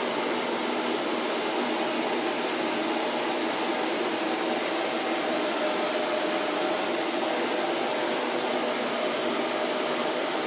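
Electric vacuum cleaner running steadily: an even rush of air with a faint, steady motor hum, unchanging throughout.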